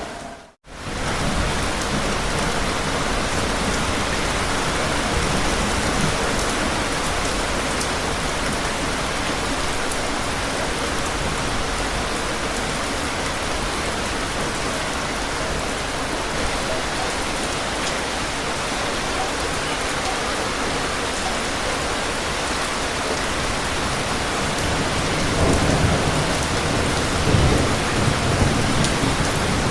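Steady rain falling with an even hiss, with a low rumble of thunder near the end. The sound cuts out for a moment about half a second in.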